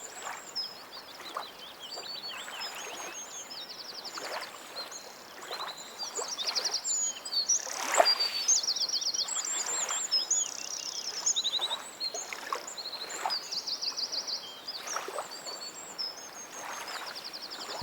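Lakeside nature ambience: many small birds chirping and singing rapid trills, over a soft hiss with occasional faint water-like swishes.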